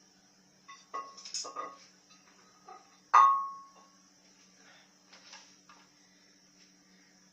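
Hard objects being handled: a few light knocks, then one sharp clink about three seconds in that rings briefly, like ceramic or glass struck together.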